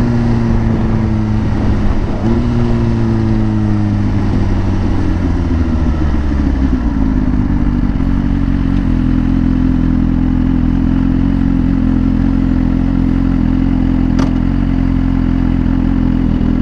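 Motorcycle engine running under the rider: its note rises briefly at the start and again about two seconds in, then drops away as the bike slows, settling into a steady lower note from about seven seconds on.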